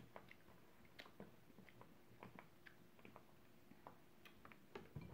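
Faint mouth-eating sounds: quiet chewing with scattered small, irregular clicks as fried shrimp is eaten and handled with the fingers.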